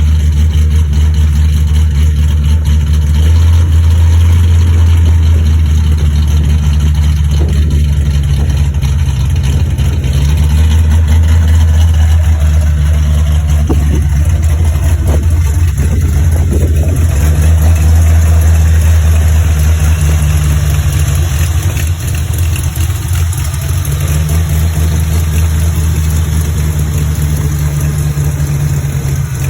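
Cammed 1995 Mustang 5.0 (302) V8 with an E303 cam and GT40 heads and intake, idling loudly through an open X-pipe exhaust. The level swells and fades every few seconds.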